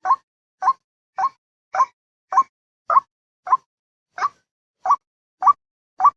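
White-breasted waterhen (ruwak-ruwak) giving a steady series of short, clipped 'kwak' calls, close to two a second, as a lure call to draw other waterhens in.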